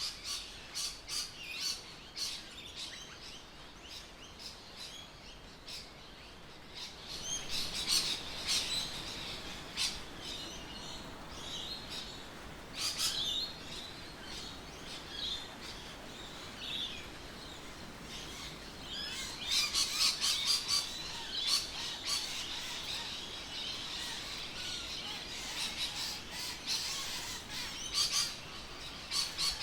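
Birds chirping, many short calls throughout, with busier spells about 8, 13, 20 and 28 seconds in, over a faint steady background hiss.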